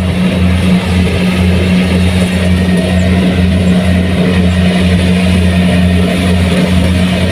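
Kubota rice combine harvester running steadily under load, a low engine drone with a pulsing beat about two to three times a second.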